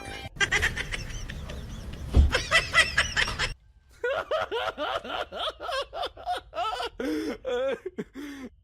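Person laughing in a string of short bursts, with a brief pause about halfway through before a longer run of laughs.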